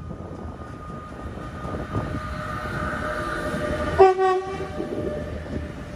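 Electric locomotive hauling a passenger train through a station, its running noise growing louder as it approaches, with one short horn blast about four seconds in as it passes close by.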